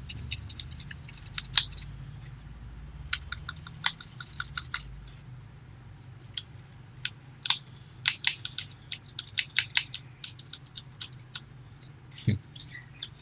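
Folded paper crackling and rustling in quick, irregular clicks as the origami flapping bird's tail is pulled and its wings flap, with a steady low hum underneath.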